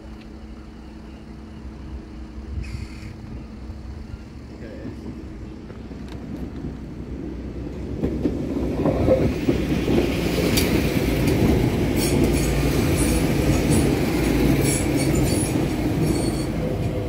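Transport for Wales diesel multiple unit approaching and passing over a level crossing: a low rumble builds from about halfway in and stays loud as the train goes by, with a run of sharp clicks from its wheels on the rails.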